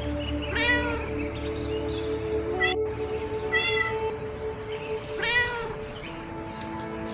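Domestic cat meowing three times, a few seconds apart, over soft background music.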